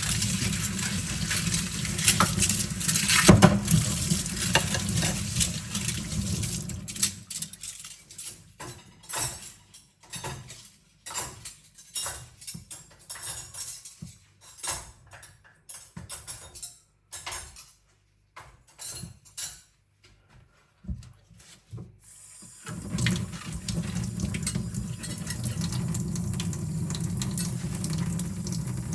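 Kitchen tap running while cutlery is rinsed under it, with metal clinks. The water shuts off about seven seconds in, leaving scattered clinks and knocks of forks and spoons. The tap comes back on abruptly for the last six seconds.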